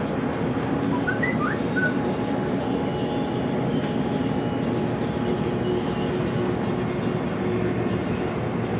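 Electric suburban train running at speed, heard from inside the carriage: a steady rumble of wheels on rail with a faint steady hum.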